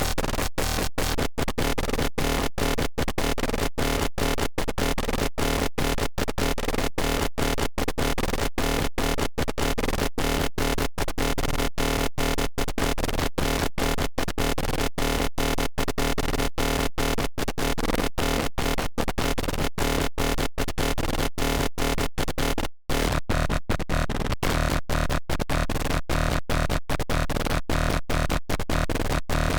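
Serum wavetable synthesizer patch playing a bright electronic tone in short, rapidly repeated notes, with a brief break about 23 seconds in.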